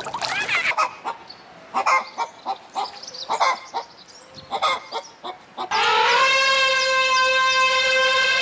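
Chickens clucking in short, irregular calls. About two-thirds of the way in, a rooster starts a long, loud crow that is still going at the end.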